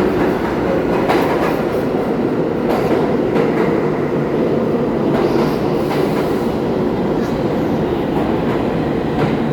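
R46 subway train running along the track with a steady rumble of wheels on rail, and a few sharp clicks as the wheels cross rail joints.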